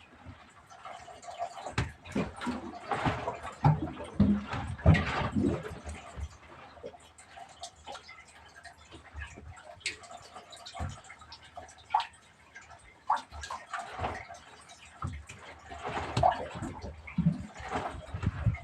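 Water splashing and sloshing with irregular knocks and clicks, busiest in the first few seconds and again near the end.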